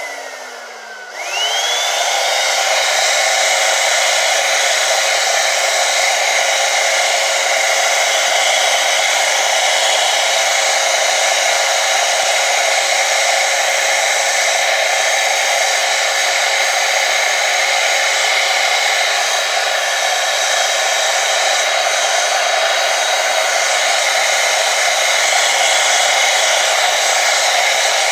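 Vacuum cleaner switched on about a second in, its motor whine rising as it spins up. It then runs steadily with a loud rush of air through the hose tool attachment.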